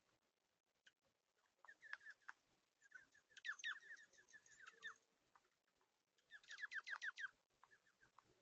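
Small bird at a feeder calling in several bursts of rapid, short chirps that slur downward, faint.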